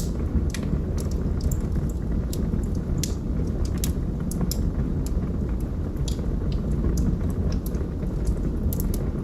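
Log fire crackling: irregular sharp pops and snaps, several a second at uneven spacing, over a steady low rumble of burning wood.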